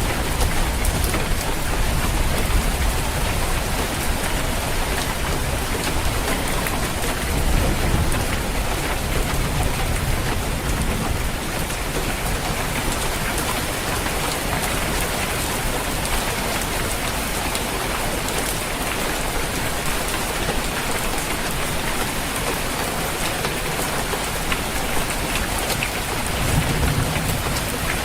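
Steady rain falling on a roof, with low rumbles of thunder swelling now and then, around the start, about a third of the way in and near the end.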